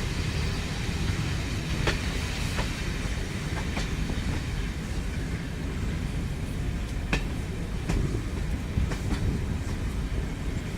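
A train running along the track: a steady low rumble with a sharp click of the wheels over a rail joint now and then, about half a dozen times.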